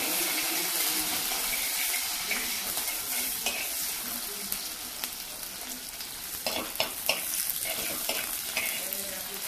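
Green chillies, curry leaves, onion and ginger sizzling in hot coconut oil in a clay pot, stirred with a steel spoon that clicks and scrapes against the pot, most busily about seven seconds in.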